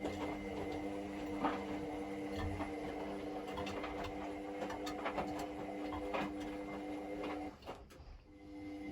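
Indesit Moon SIXL145 washing machine's motor running with a steady hum and scattered light clicks. It stops for about a second near the end, then starts again.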